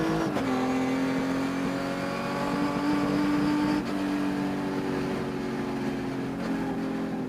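Race car engine pulling hard under load. Its pitch climbs steadily, then steps down sharply three times, as on upshifts. The owner says the engine had a high-RPM miss throughout this race that can be heard.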